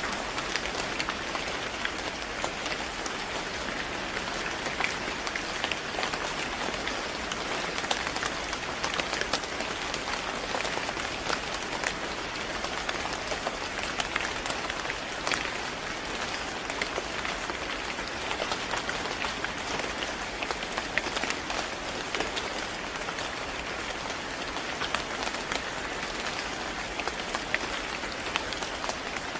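Steady rain falling: a continuous hiss with many small, closely spaced drop taps.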